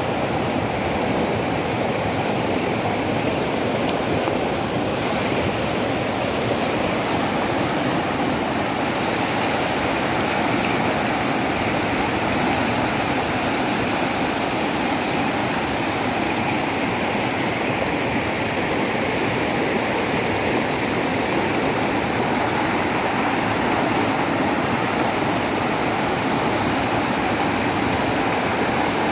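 Steady rush of water pouring down a waterfall and through a rocky river, unbroken throughout.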